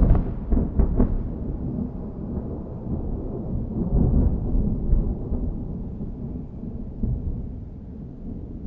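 Thunder: a close, loud clap with sharp cracks in the first second, then a long low rumble that rolls on and slowly fades.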